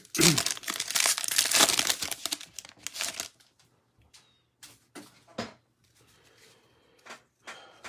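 Foil wrapper of a Panini Chronicles baseball card pack being torn open and crinkled, for about three seconds. It is followed by a few short, light rustles and taps as the cards are handled.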